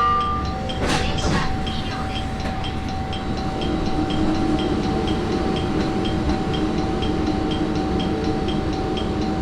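Train at a station with a steady tone and a quick, regular beeping. There is a short knock about a second in, and a low hum that grows louder from about a third of the way through.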